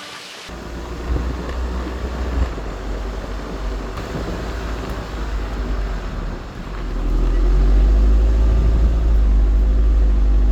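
Vehicle running, a steady low rumble that grows louder about two-thirds of the way through.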